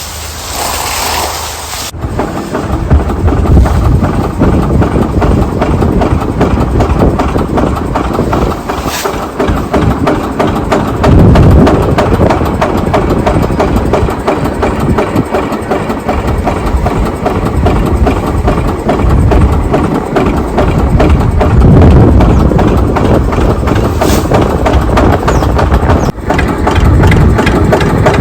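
An engine running with a fast, even pulse, cutting in about two seconds in after a brief hiss.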